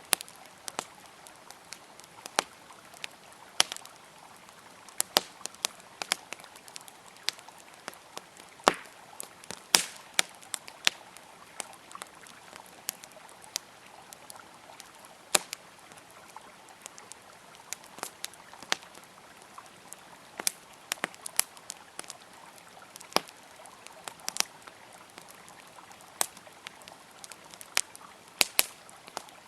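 Wood campfire crackling, with irregular sharp pops and snaps, over the steady rush of a flowing river.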